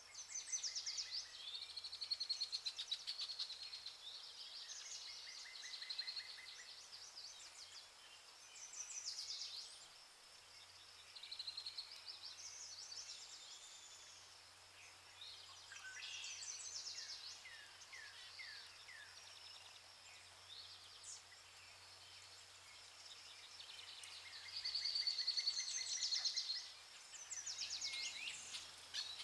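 Rainforest birds calling over one another with rapid trills and chirps, including a short run of falling notes about halfway through and a louder burst of trilling near the end.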